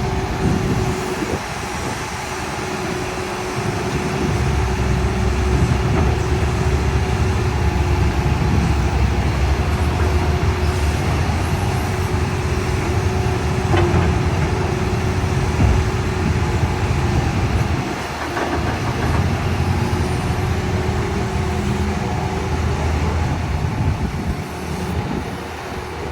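Heavy diesel machinery engines running steadily with a deep drone, easing slightly in loudness about two-thirds of the way through.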